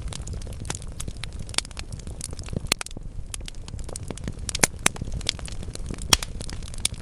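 Burning wood logs crackling in a fireplace: a steady stream of sharp pops and snaps, with a handful of louder pops spread through, over a continuous low rumble.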